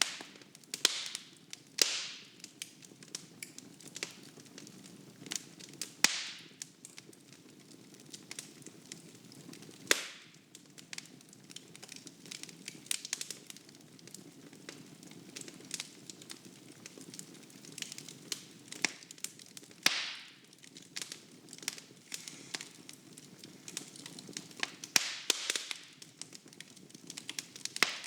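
Wood fire burning in a fireplace, the logs crackling and popping at irregular intervals, with now and then a louder snap followed by a brief hiss, over a faint low rush of flame.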